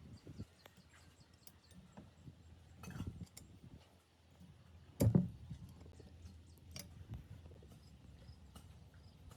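Scattered knocks and clinks of tool and machine parts being handled on a workbench. A short cluster comes about three seconds in, a single louder knock a little after five seconds, and a lighter one a little before seven seconds.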